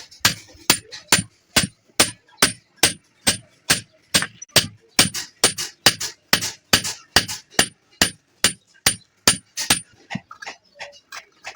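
Hand hammer striking metal in steady, rhythmic blows, about two to three a second, each with a short metallic ring. The blows stop near the end and give way to lighter, quicker taps.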